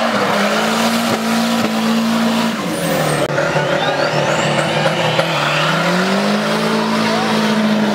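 Cars held at high revs on a drag-race start line, a BMW 5 Series among them, with a rear tyre spinning and squealing in a burnout. The revs hold steady, dip about five seconds in and climb back up.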